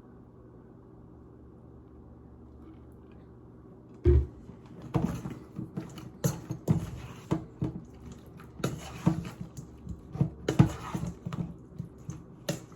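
Kitchen clatter: a faint steady hum, then from about four seconds in a sharp knock followed by a run of irregular knocks and clicks of utensils and dishes while cooking.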